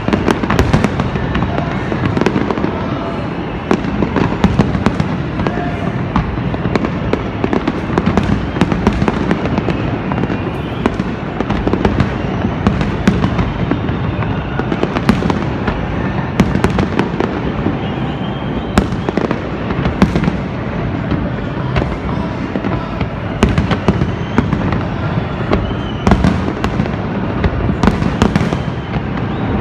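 A large fireworks display: shells bursting in a dense, continuous barrage of sharp bangs, several a second, over a steady low rumble of overlapping booms.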